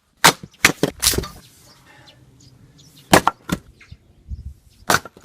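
Axe splitting firewood logs: sharp wooden cracks and knocks, about four in quick succession in the first second, two more about three seconds in and one near the end, as blows land and the split pieces fall.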